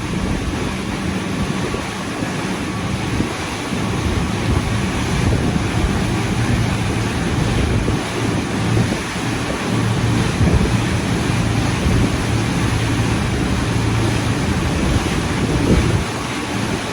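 Wind buffeting the microphone over a steady rushing of water and a low, even engine hum.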